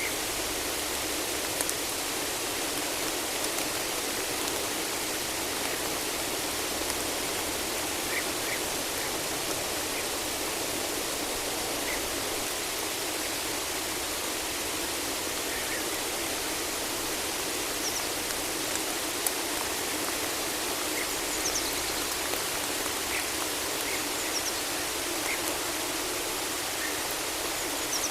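Steady rain falling in a forest, an even hiss with no let-up. A few faint, brief high bird chirps come through now and then.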